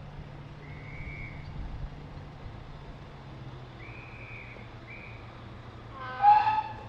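Steady low drone of a Class 55 Deltic's Napier Deltic diesel engines ticking over, with a few short high tones in the first five seconds. About six seconds in, a short, loud pitched note cuts in over the drone.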